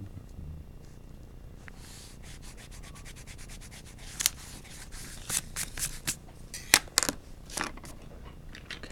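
Graphite pencil strokes on paper: a quick run of light strokes from about two seconds in, then louder, separate strokes, the strongest a little before seven seconds.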